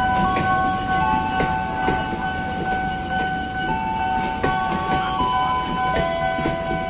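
Passenger train running past, with a continuous low rumble and irregular wheel clicks over the rails. Several steady tones overlap above it, each held for a second or two before shifting to a new pitch.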